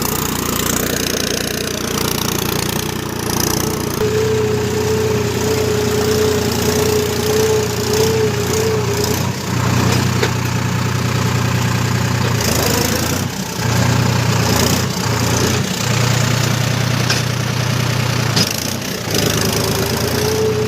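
Tractor engine running steadily, with a held higher whine over the engine hum at times.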